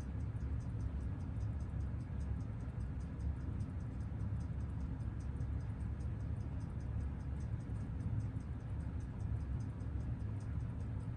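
Seiko 6139 automatic chronograph movement ticking on a timegrapher, an even six ticks a second over a low steady hum. The movement is running with very steady amplitude.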